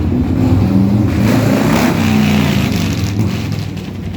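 Motorcycle engines running loudly, with a burst of louder noise about a second in.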